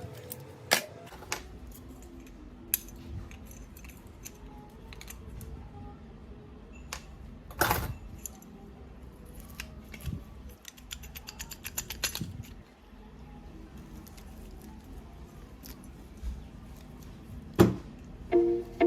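Scattered clicks, clinks and knocks of small metal parts and hand tools being handled while an old rotary hammer is serviced, with a louder knock about eight seconds in and another near the end. Plucked-string background music starts right at the end.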